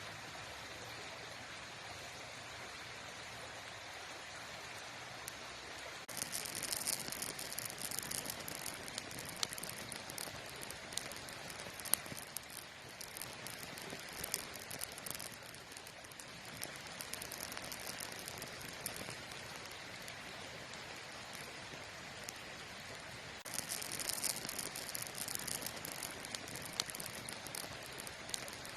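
Campfire burning: a steady hiss, then from about six seconds in a livelier crackle with scattered sharp pops that eases off and picks up again near the end.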